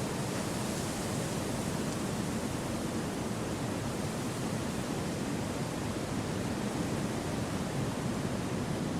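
Wind blowing steadily, an even rushing noise fullest in the low range, with no gusts, rustles or other events.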